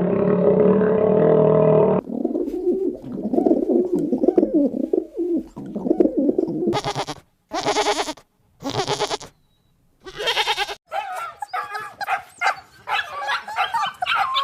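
A run of different animal calls, one clip after another with abrupt changes: low wavering calls, then three short harsh bursts, then a quick series of higher pitched calls.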